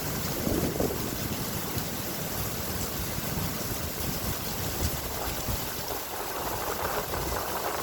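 Steady rain falling: an even, unbroken hiss of rain noise.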